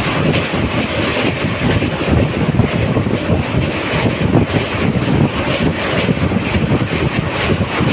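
A train running, a steady rumble, with wind buffeting the microphone.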